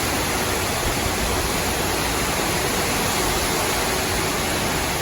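Strong wind rushing through tree branches and leaves, a steady, even rush of noise.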